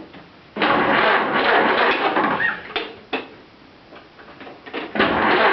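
Ford Model A truck's four-cylinder engine being started: a loud burst of cranking and running about half a second in that dies back after about two seconds, then a second loud burst near the end as it catches.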